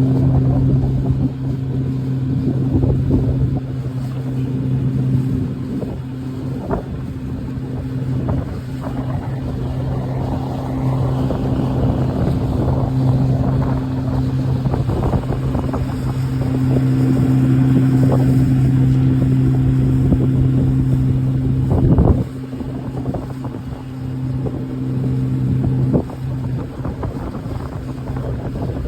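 Boat engine running steadily under way, a constant low hum, with wind buffeting the microphone. A sharp knock comes about three-quarters of the way through, after which the engine sounds a little quieter.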